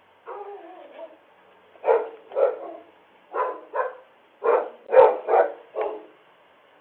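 A dog barking, about eight sharp barks in quick pairs and threes, after a short wavering whine near the start. The sound is thin and band-limited, as picked up by a video doorbell's microphone.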